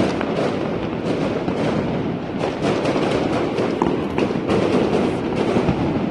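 New Year's fireworks going off continuously: a dense, unbroken run of bangs and crackles.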